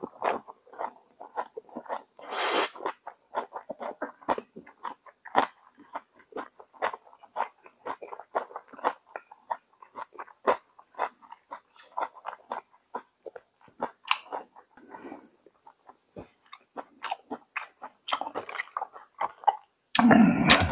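A person chewing a mouthful of rice paper roll filled with crisp raw vegetables, close to a lapel microphone: irregular wet crunches and chewing clicks, with a louder crunch about two and a half seconds in and a short voiced hum right at the end.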